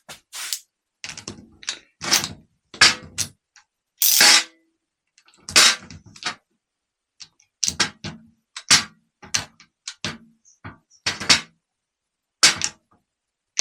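A lock nut being done up on a starter solenoid's terminal stud with a hand tool: a series of short, irregular metallic clicks and scrapes, a few of them longer rasps.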